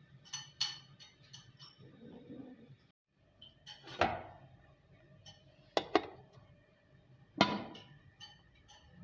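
A series of sharp clinks and knocks of hard objects, with short ringing. The loudest come about four seconds in, as a quick double about six seconds in, and about seven and a half seconds in.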